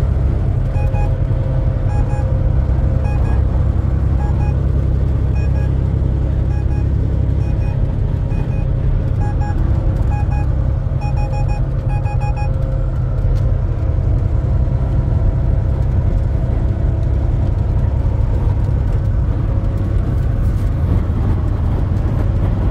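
Steady engine and road noise inside a moving semi-truck's cab. Over the first half comes a series of short electronic beeps, about one a second, which stop about 12 seconds in.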